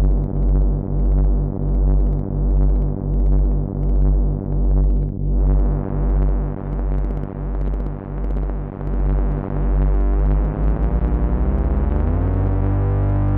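Moog Minitaur analog bass synthesizer playing a low, buzzing lightsaber hum that pulses about one and a half times a second, aiming at a fluttering hum like Darth Maul's saber. The tone brightens about halfway through, then the pulsing speeds into a fast flutter and settles into a steady, slightly higher hum near the end.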